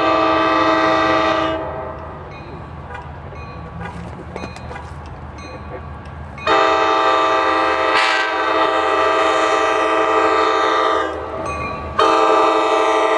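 Sounder commuter train locomotive's air horn sounding long blasts: one ending about a second and a half in, a second from about six and a half to eleven seconds, and a third starting near the end. Between the blasts, the low rumble of the passing train with a few clicks.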